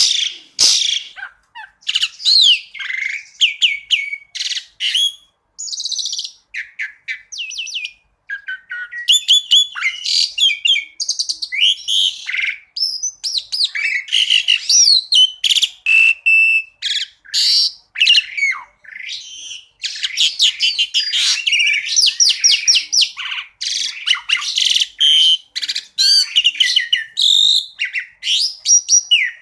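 Asian pied starling (jalak suren) singing a rapid, varied string of chirps, whistles and fast trills, with brief pauses between phrases.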